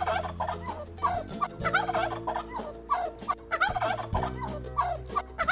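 Turkey gobbling, a rapid warbling call repeated about once a second, over steady held low notes.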